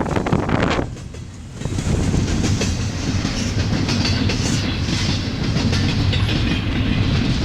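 Long mixed intermodal and manifest freight train rolling past, its cars' wheels running steadily on the rails. There is a brief lull about a second in, and then the sound holds steady.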